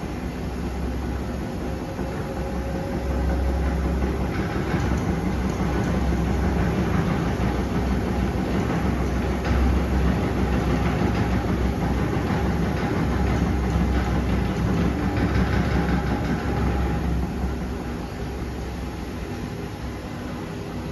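Pasvens washing machine running through its wash cycle: a steady motor hum and drum rumble that grows louder a few seconds in and eases off near the end.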